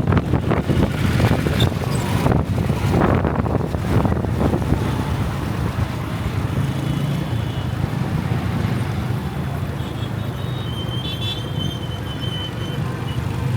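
Motorcycle ride in city traffic: engine and road rumble with wind buffeting the microphone in gusts for the first few seconds, then steadier.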